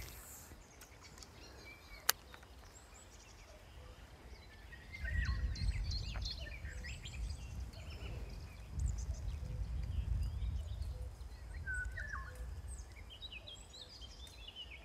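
Small songbirds chirping and singing throughout, with one sharp click about two seconds in. A low rumble comes in about five seconds in and again around nine seconds.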